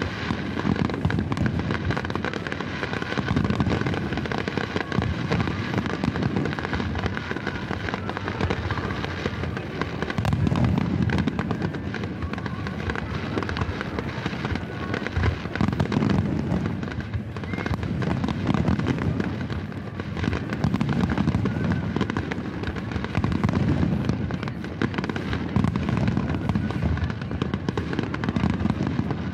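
Fireworks display: many aerial shells bursting in quick succession, a continuous crackle with repeated low booms.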